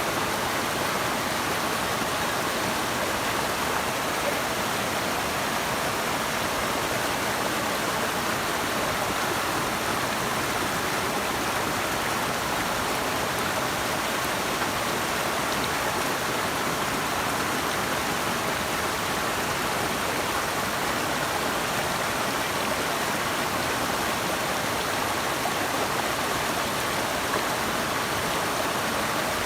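Running water rushing steadily, an even, unbroken hiss with no distinct splashes or pauses.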